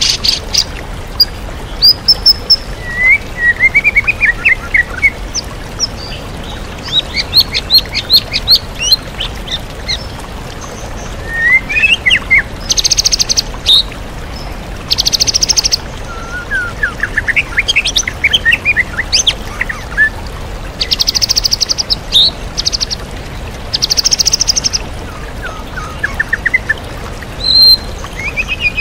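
White-rumped shama singing a varied, loud song of whistled glides, quick trills and several harsh buzzy rattles, mimicking other songbirds. A steady waterfall rush runs beneath it.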